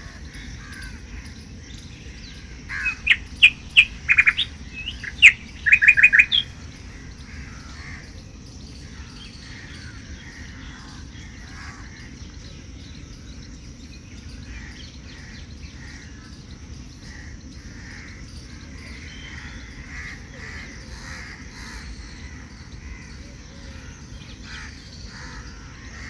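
Birds chirping outdoors, with a quick run of loud, sharp calls about three to six seconds in, then fainter scattered chirping over a low steady background rumble.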